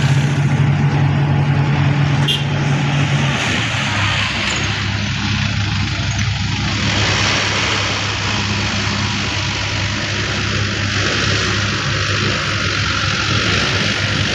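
Heavy diesel engine running steadily, its note dropping to a lower one about three seconds in, over a steady wash of noise.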